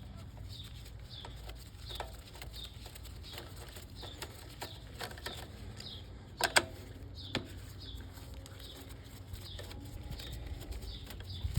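A small bird chirping over and over, about twice a second, with scattered light clicks and one sharper click about six and a half seconds in.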